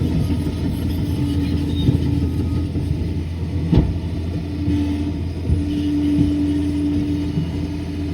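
Liebherr PR 746 crawler dozer's diesel engine running under work with a steady low rumble. A steady whine rises over it about halfway through, and there is one sharp knock a little before that.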